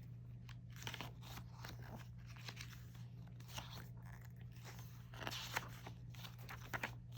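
Faint rustling and crinkling of paper and plastic as a K-pop album's photo book and inserts are handled, in scattered short bursts and clicks over a steady low hum.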